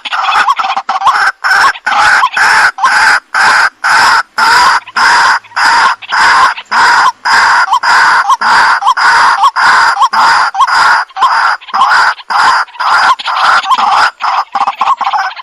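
Waterhen (jal murgi) calling over and over, loud short harsh notes about two a second in an even run.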